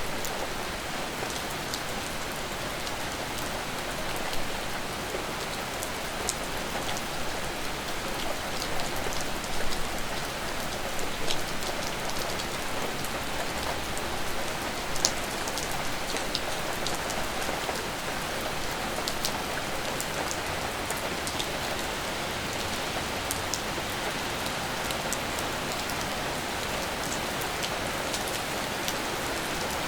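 Steady rain falling, an even hiss with scattered sharper drips and drop taps standing out now and then.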